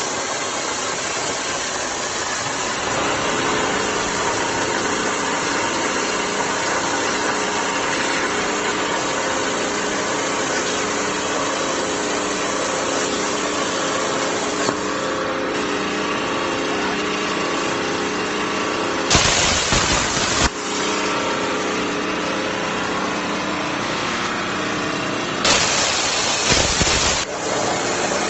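Mini CNC cutting machine's torch cutting steel sheet, a steady loud hiss with a faint hum, interrupted twice by a louder blast of about two seconds.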